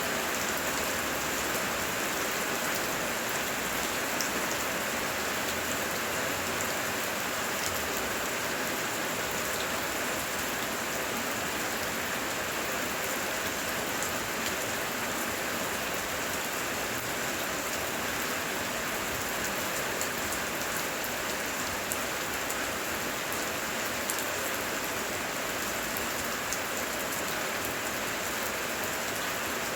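Steady heavy rain falling, with scattered sharper hits of individual drops through the even hiss.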